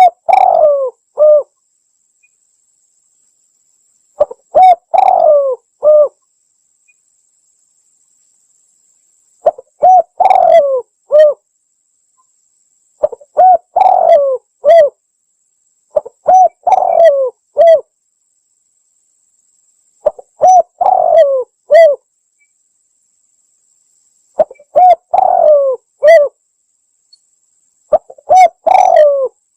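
Spotted dove (tekukur) cooing: a short phrase of three or four coos, repeated about eight times with silent gaps of one to four seconds between, used as a lure call to attract doves.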